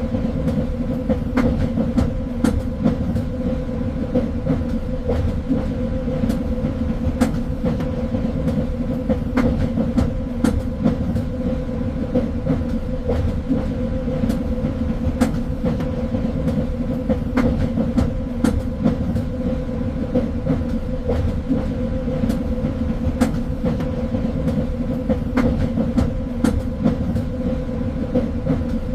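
Train running along the track: a steady rumble with a couple of held tones, broken by irregular sharp clicks and rattles from the wheels on the rails.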